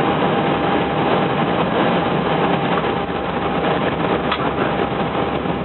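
Steady rush of engine and airflow noise in an Airbus A320 cockpit during the landing, just after the 'retard' callout. A thin steady tone runs under it, and there is a brief tick about four seconds in.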